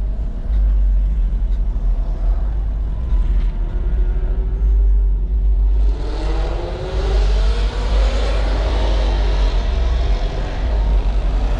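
Car engine under a constant low rumble; about halfway through a loud engine accelerates, its note climbing steadily for a few seconds before it levels off.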